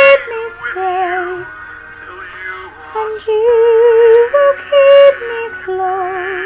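Singing with musical accompaniment: long held notes with a wide vibrato, moving from phrase to phrase.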